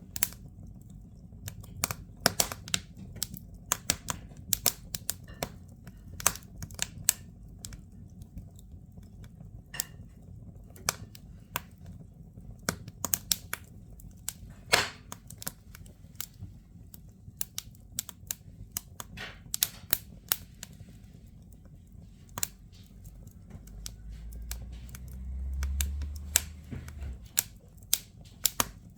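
Firewood crackling in a fireplace: irregular sharp pops and snaps over a low steady rumble, with a brief swell in the low rumble a few seconds before the end.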